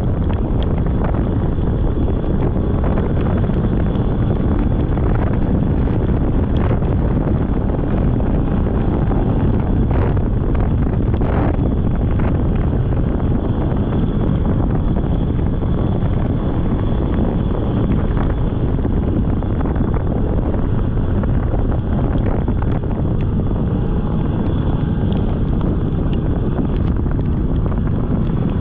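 Steady, heavy wind rumble on the microphone of a moving Polaris snowmobile, with the sled's running engine mixed in underneath.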